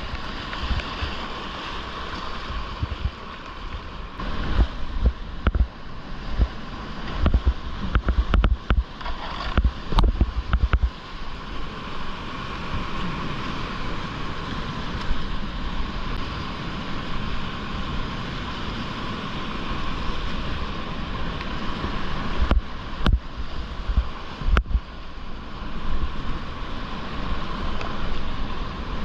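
Whitewater rapids rushing steadily under a kayak. Bursts of heavy splashing and low thumps come in clusters, from about four to eleven seconds in and again a little after twenty seconds.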